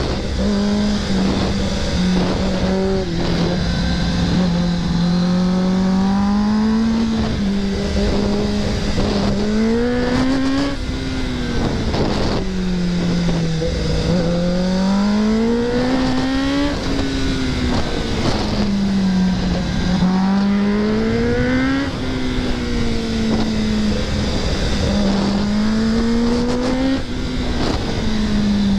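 Kawasaki ZX-10R's inline-four engine under hard riding, its pitch climbing and dropping back again and again as the throttle is opened and closed through the bends, over a steady rush of wind noise.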